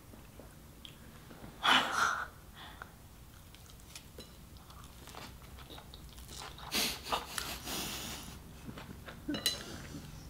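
Close-miked chewing of oversized mouthfuls of sushi roll: wet, crunching bites and mouth clicks. There is a short louder burst about two seconds in and another cluster of louder chewing sounds around seven seconds in.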